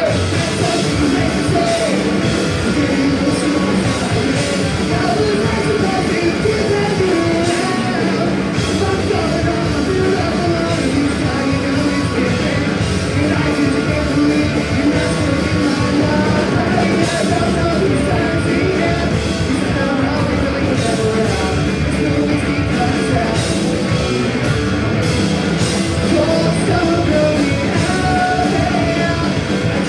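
Punk band playing a fast song live, with shouted singing over distorted electric guitars, bass and drums.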